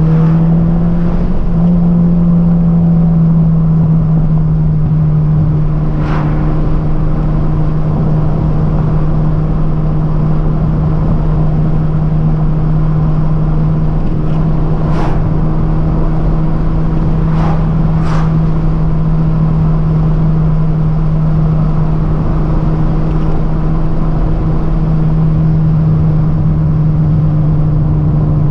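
1989 Toyota Celica GT-S's four-cylinder engine running steadily under way, heard from inside the cabin over road noise, its pitch rising a little about a second in and then holding. A few brief clicks or knocks sound over it.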